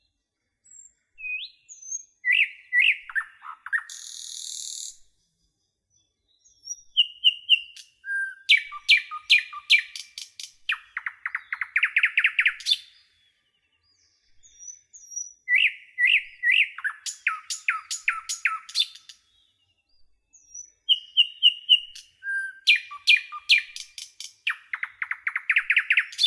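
A bird singing in phrases of sharp chirps, each phrase ending in a fast trill, with silent gaps of a second or two between phrases; a short hiss about four seconds in.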